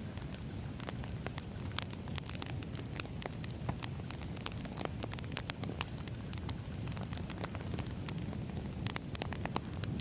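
Wood fire burning: a steady low rumble with frequent sharp, irregular crackles and pops of burning logs.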